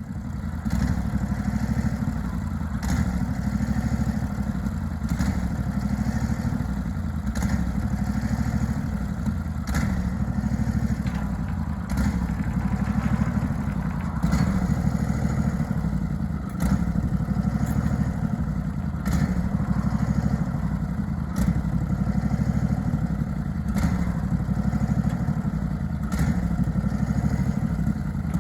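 Portable bandsaw sawmill's engine running steadily, with scattered light knocks and clatter over it.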